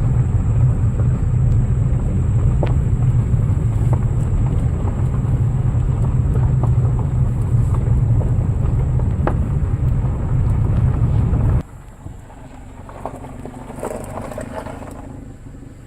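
Car running, a steady low rumble that cuts off suddenly a few seconds before the end, leaving a much quieter background.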